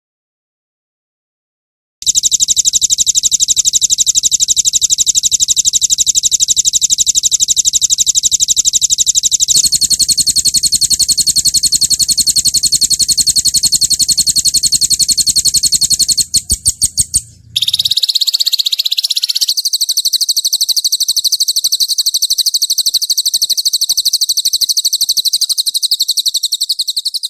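Recorded songbird song of the 'roll tembak' kind used to train cage birds: long rolls of very fast repeated high notes. The roll starts after about two seconds of silence, changes pattern several times, and ends in a long, even faster high trill.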